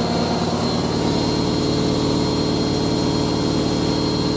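Hoover A3060 Electronic 1100 washing machine spinning at its top speed of 1100 rpm. The motor hum and drum whir run steady and smooth, with a slight change in tone about a second in.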